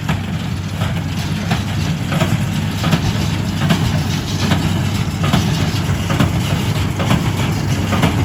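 Tractor engine running with a small square hay baler working behind it. A regular knock comes about every three-quarters of a second over a steady low engine hum.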